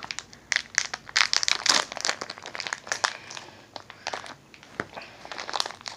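Plastic gummy candy package crinkling and crackling in the hands as it is worked open, a hard-to-open wrapper. The irregular crackles come thickest in the first half and thin out later.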